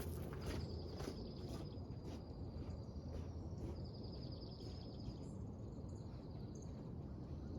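Outdoor ambience with an insect trilling: a high, finely pulsing steady buzz that fades after about five seconds. A few light clicks come in the first second or so, over a low steady background hum.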